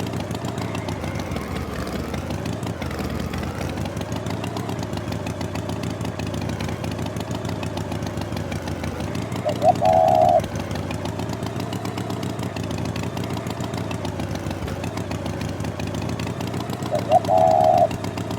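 Cartoon tractor engine sound effect running steadily at idle. A short, level-pitched honk-like tone cuts in twice, about halfway through and near the end.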